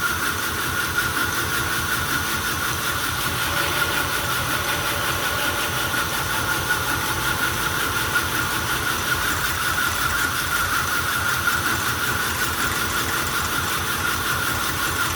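Belt grinder running steadily with a steady high whine, a knife blade's bevel being ground freehand on its fine 400-grit belt.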